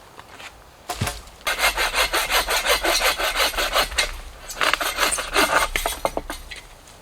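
Hand saw cutting wood in quick back-and-forth strokes, in two runs with a short pause about four seconds in.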